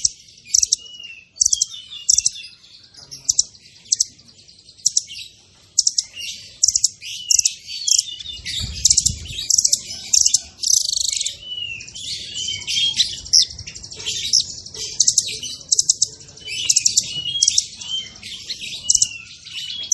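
A songbird singing a fast, dense song: rapid runs of sharp high chirps with short curved whistled notes between them, the kind of recording used as masteran to teach caged songbirds.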